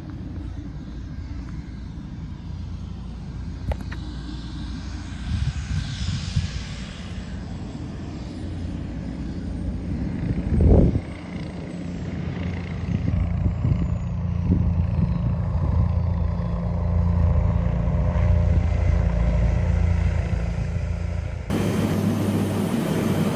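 Aircraft engine running with a steady low drone, with one loud thump about eleven seconds in and a faint high whine that falls slowly in pitch. Near the end the sound changes abruptly to a different steady drone.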